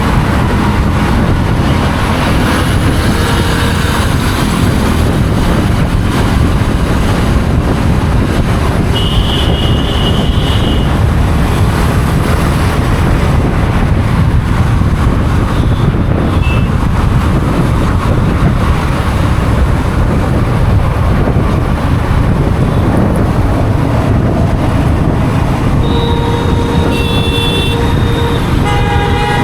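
Steady road and traffic noise heard from a moving motorcycle, loud and even throughout. A vehicle horn sounds briefly about a third of the way in, and horns honk again near the end.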